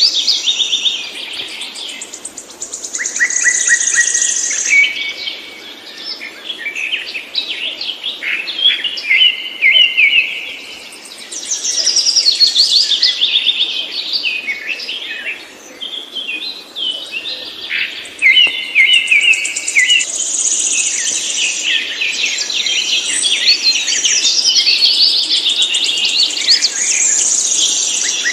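Songbirds singing continuously: dense, overlapping chirps, trills and rapid note runs, high-pitched and busy throughout.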